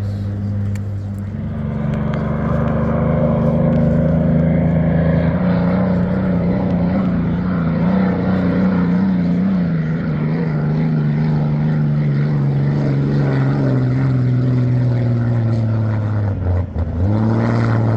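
Straight-piped 27-litre Rolls-Royce Merlin V12 of a vintage hydroplane running hard: its note rises about a second in, holds, then slowly sags. Near the end it dips sharply for a moment, as on a brief throttle lift, and picks back up.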